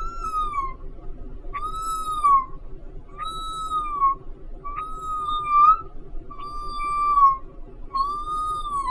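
A woman imitating a kitten's mewing with her voice: six high, thin mews, each rising and falling, at steady intervals about a second and a half apart.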